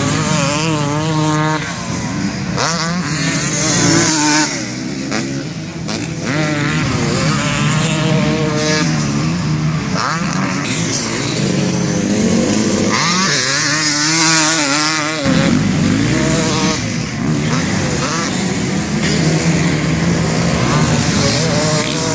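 Motocross dirt bike engines revving, their pitch rising and falling again and again as the throttle is worked on and off.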